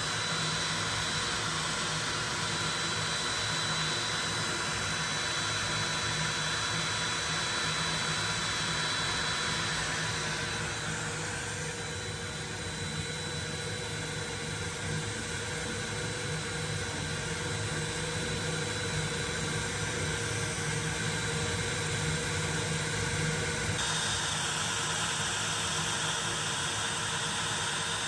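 Makita router spinning at steady speed on a CNC machine while it cuts wood: a steady whine over a rushing noise. The sound shifts about ten seconds in and again shortly before the end.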